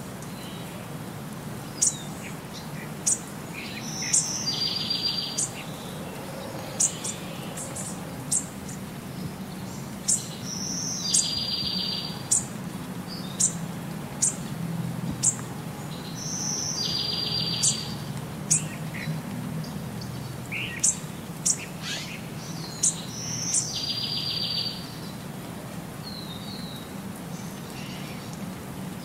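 Birds chirping: sharp high chirps about once or twice a second, and a longer buzzy call that comes back about every six seconds, over a low steady hum.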